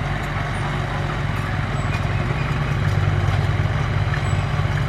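Heavy diesel engine of an earthmoving machine running steadily under load, getting somewhat louder about halfway through.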